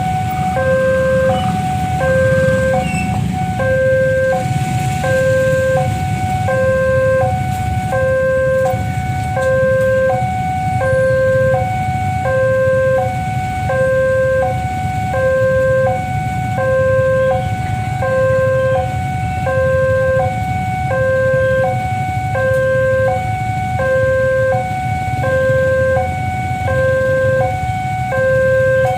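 Nippon Signal electronic level-crossing warning bell sounding its repeating two-tone alarm, a lower and a higher tone alternating about once a second: the crossing is active for an approaching train. A steady low rumble runs underneath.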